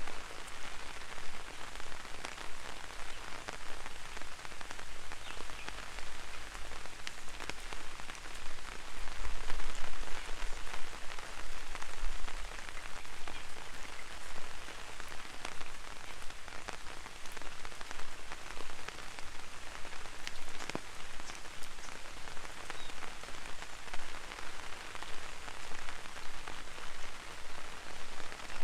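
Light rain pattering steadily on an umbrella overhead: a dense hiss of many small drop ticks. A low rumble swells for several seconds about a quarter of the way in.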